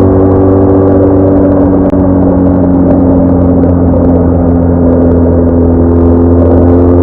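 BMW R1200R motorcycle's boxer-twin engine running at a steady cruise, its note easing down slightly in pitch.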